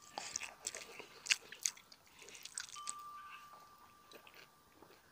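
Close-miked chewing of pork and rice, with wet mouth clicks and smacks, the sharpest in the first two seconds and then dying away. A faint thin steady tone sounds for about a second past the middle.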